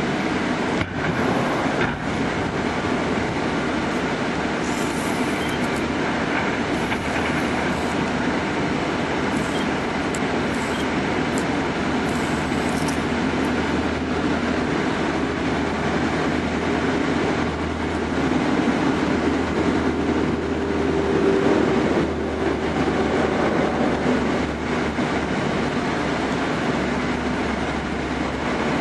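Heavy diesel equipment running steadily: a continuous low engine drone under dense mechanical rattle, a little louder about twenty seconds in.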